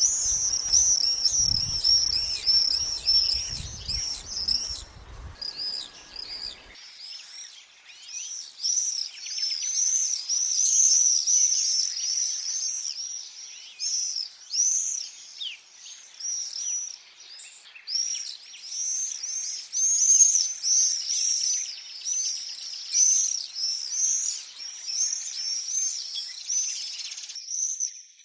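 Common swifts screaming: many short, shrill high calls overlapping in a dense chorus. A low rumble sits under the calls for the first five seconds or so.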